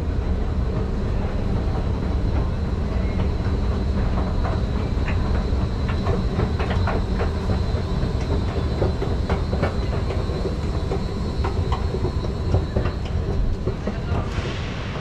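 Train running through the station: a steady low rumble with scattered clicks and squeaks from the wheels and rails, and a thin high whine that stops near the end.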